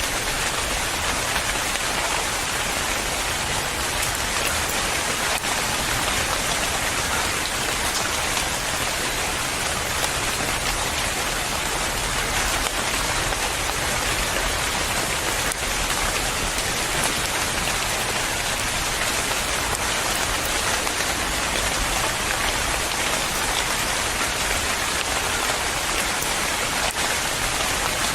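Steady rain falling, an even hiss of many drops hitting a surface, with no breaks or thunder.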